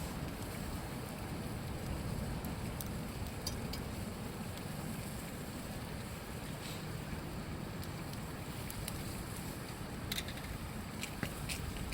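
Wood campfire crackling with scattered sharp pops, a few more coming near the end, over a steady low rush of flowing river water.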